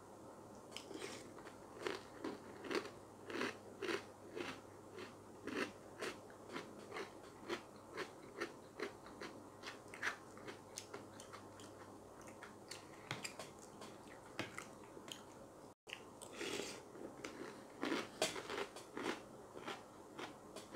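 A person chewing a mouthful of crunchy Froot Loops cereal in milk: a steady run of crunches, two or three a second.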